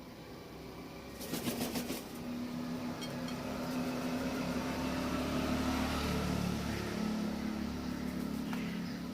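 A motor vehicle's engine running close by, its hum swelling toward the middle and easing off near the end, after a quick rattle of about eight clicks about a second in.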